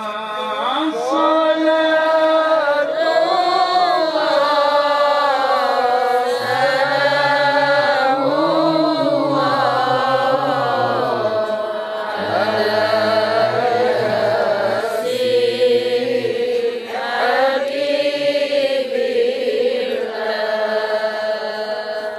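A male qari reciting the Quran in tilawah style: one long, melodic phrase drawn out with wavering ornaments, trailing off at the very end.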